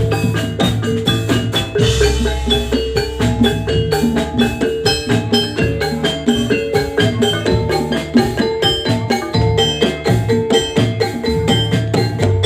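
Instrumental jathilan gamelan music with no singing: metallophones struck in a fast, busy pattern over drums. A deep bass note comes in about two seconds in.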